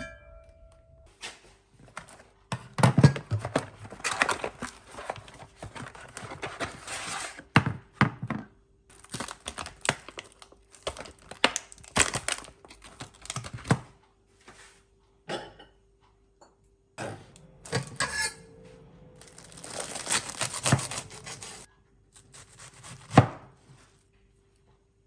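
Irregular knocks and thunks of objects being handled, mixed with several stretches of hiss-like noise, over a faint steady hum.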